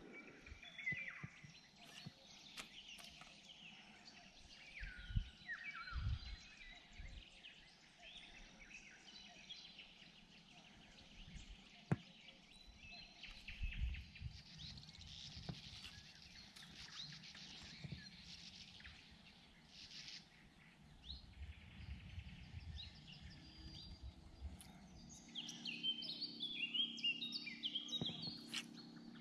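Birds chirping and calling, many short falling notes, with a busy burst of chirps near the end. Occasional low thumps come through, and a steady low hum starts near the end.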